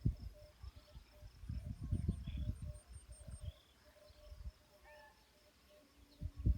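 Outdoor countryside ambience: insects trilling in steady pulses, a few short bird chirps, and irregular low rumbles that are loudest about two seconds in.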